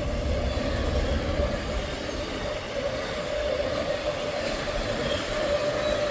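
Intermodal freight train rolling past, its last cars going by, with a steady high wheel squeal that grows stronger in the second half.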